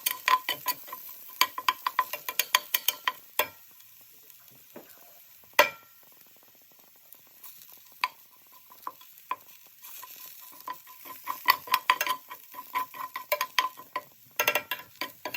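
Minced garlic frying in oil in a pan, with a faint sizzle under rapid clicks and scrapes of a utensil stirring it against the pan. The stirring thins out for a few seconds in the middle, with one sharp knock, then picks up again.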